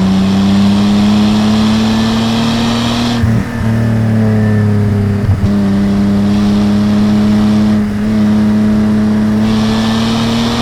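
Datsun 240Z's 2.8-litre L28 inline-six exhaust under load while driving, its note climbing slowly, with two brief breaks for gear changes about three and five seconds in.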